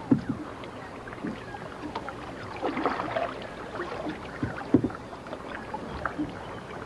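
Canoe paddles dipping and splashing in water, with scattered sharp knocks, the loudest just after the start and a little before five seconds.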